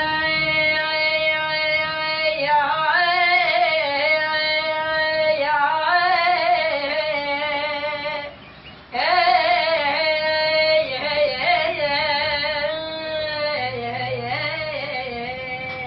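A woman's voice singing long, ornamented held notes with vibrato. It breaks off briefly about halfway through, then carries on.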